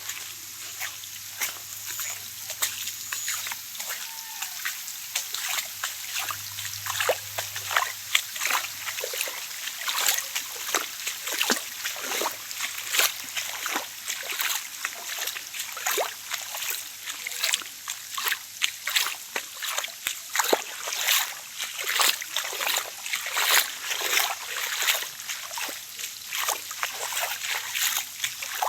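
Rain falling, with a steady hiss and many irregular drops and splashes of water.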